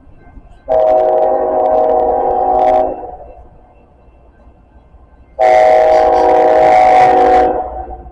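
CSX locomotive air horn sounding two long blasts of about two seconds each, a chord of several steady tones, with a few seconds' gap between them.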